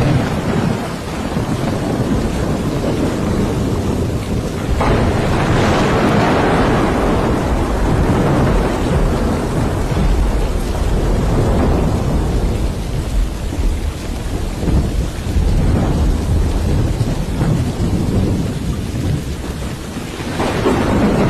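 Thunderstorm: thunder rolling over steady rain, with a sudden crack about five seconds in that rumbles on for several seconds and another roll building near the end.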